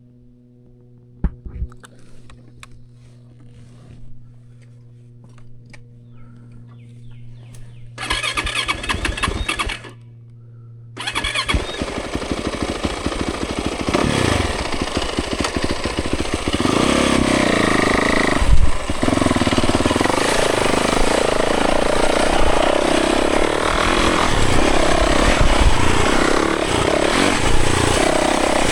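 Yamaha 450 four-stroke single-cylinder dirt bike engine. A quiet, steady low hum with a few clicks comes first, then a short loud burst about eight seconds in. From about eleven seconds the engine runs loud, revving up and down as the bike rides off.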